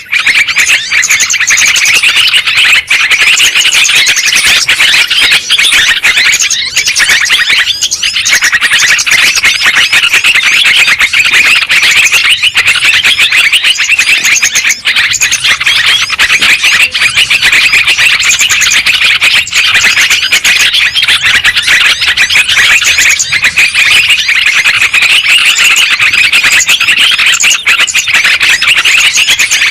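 Yellow-vented bulbuls (trucuk) chattering noisily and without pause, many busy overlapping calls at once. It is a lure recording of the kind played to draw wild bulbuls in.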